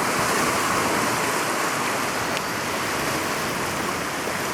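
Flash-flooded creek rushing fast beneath a bridge: a steady, even roar of water, easing slightly toward the end.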